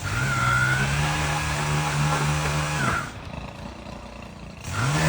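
Chainsaw revved up and held at full throttle for about three seconds, then let back down; it revs up again near the end.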